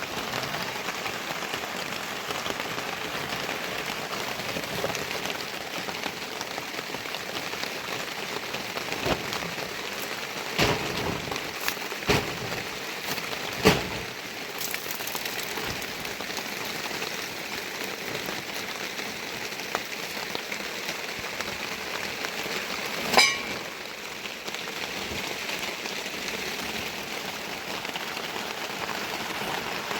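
Steady rain falling, with a handful of sharp knocks or taps: a few clustered around the middle and one loud one later.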